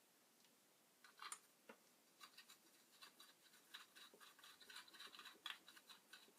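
Faint scratching with short clicks and taps, starting about a second in, as of small parts or tools being handled.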